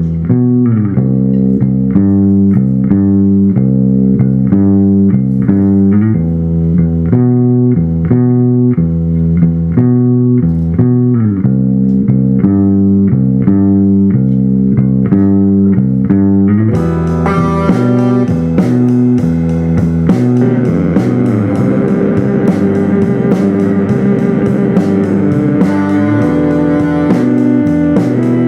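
Rock band playing an instrumental passage: a repeating bass and electric guitar figure that sounds muffled at first, then opens up to the full band about 17 seconds in, with a sharp, regular beat.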